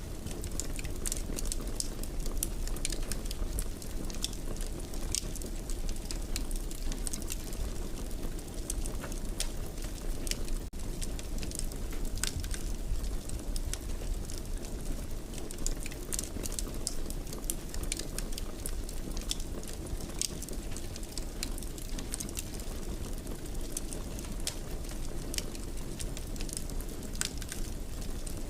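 Wood fire burning in a fireplace, with frequent small crackles and pops scattered over a steady low rumble.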